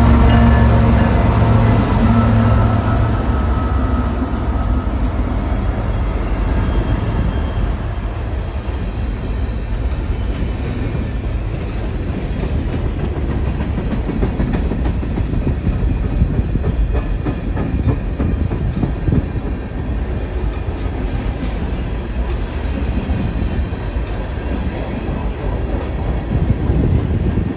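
Freight train passing close by. The diesel locomotive's engine drone dies away in the first few seconds, then a long string of steel open-top freight cars rolls past with a steady wheel rumble and clickety-clack over the rail joints.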